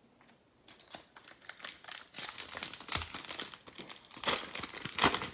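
Foil trading-card pack wrapper crinkling as it is handled and torn open, a run of sharp crackles that grows louder, with the loudest bursts near the end.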